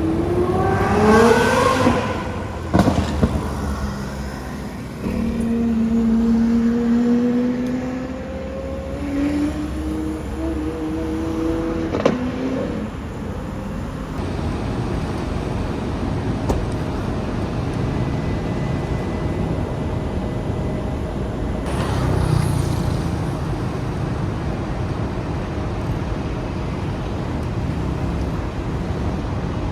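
A car engine accelerating hard with its pitch rising steeply, a break as it shifts, then a second, slower rising pull in the next gear. After that the engine fades into steady street traffic noise, with a brief swell about two-thirds of the way through.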